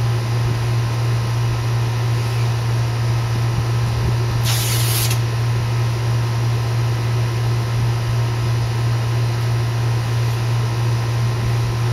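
A steady low background hum, with one short, high spray-like hiss lasting under a second about four and a half seconds in.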